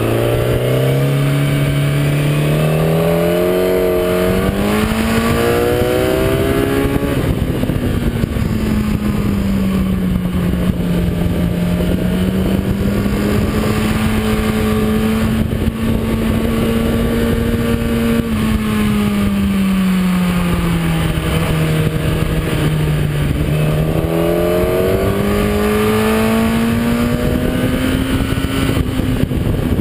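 Kawasaki ZX-10R's inline-four engine at speed around a racing circuit, under heavy wind rush on the onboard microphone. The revs climb through the gears over the first several seconds, hold and waver through the middle, drop about three-quarters of the way in, then climb again near the end.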